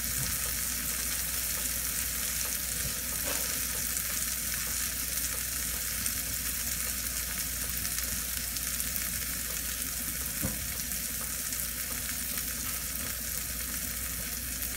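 Chopped sweet and hot red peppers sautéing in oil in a frying pan: a steady, even sizzle.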